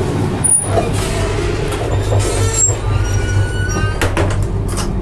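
Steady low rumble of a moving passenger train, heard from inside the coach vestibule. A few sharp clicks come near the end as a hand works the washroom door's metal sliding bolt.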